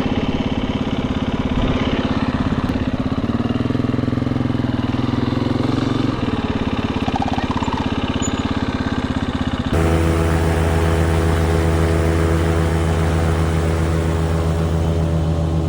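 Dirt bike engine running at steady speeds, its pitch shifting a step or two. About ten seconds in the sound changes abruptly to a deeper, very steady engine drone.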